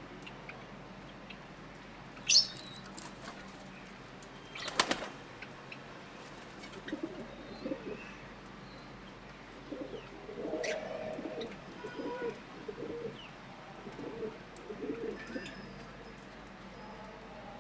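Domestic pigeons cooing in a run of low repeated notes through the second half. Near the start there is a short high chirp, and about five seconds in a brief burst of noise.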